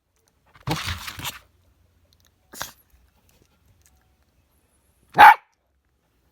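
A dog barking in short, separate barks: a rough, noisy one about a second in, a brief sharp one a moment later, and one loud, sharp bark about five seconds in.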